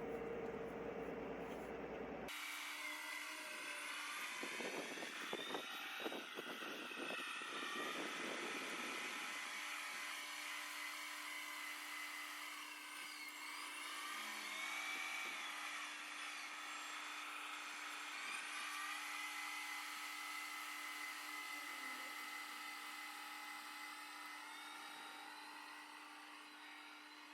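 G scale model train locomotive running, its electric motor and gears whining, the pitch rising and falling with speed. Irregular crackling about four to nine seconds in, and the sound fades near the end.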